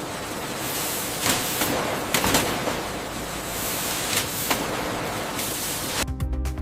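Factory machinery noise: a steady hiss with scattered clicks and knocks. Electronic music with a beat cuts in abruptly near the end.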